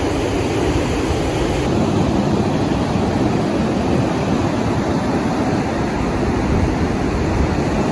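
Steady rushing noise of ocean surf and wind buffeting the microphone, heaviest and gustiest in the low end.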